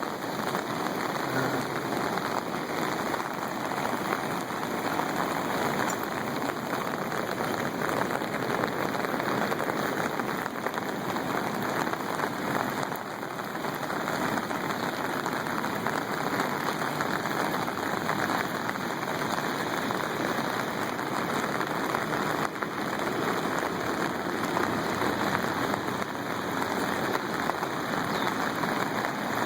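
Steady, even rush of water from the fast-running, flooded river, with no breaks or separate events.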